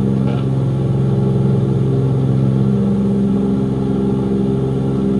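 Three Pratt & Whitney R-2000 radial engines of a C-54 running steadily at high power during a three-engine takeoff, number 4 engine shut down, heard from inside the cockpit as a loud, even drone.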